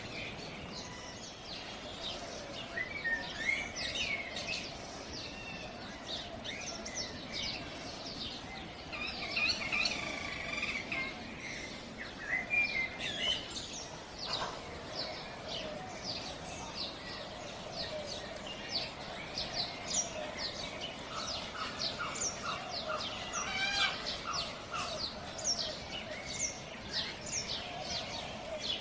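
Wild cockatiels calling: many short chirping calls in quick succession, busiest about a third of the way in and again toward the end, over a steady low drone.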